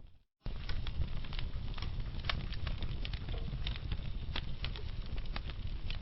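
Wood fire burning in a fireplace, crackling with scattered sharp pops and snaps over a steady low rumble of flame. The sound cuts out completely for a moment just after the start, then resumes abruptly.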